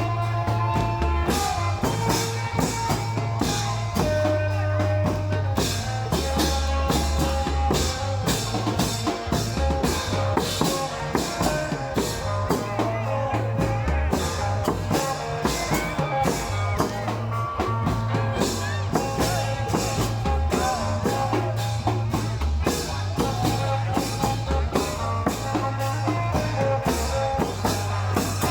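Isan klong yao long-drum band playing a fast, steady rhythm of drums and cymbals, with a melody line and a heavy bass underneath.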